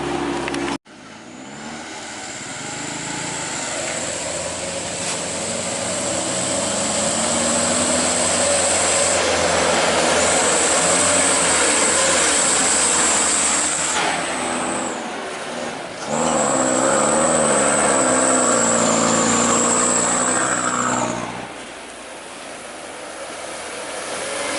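Diesel palm-oil truck engine working on a rough road, heard in edited clips: after a sudden cut about a second in, the engine builds up with a high whine on top, then a second clip about 16 s in with the engine pitch rising and falling, dropping away about 21 s in.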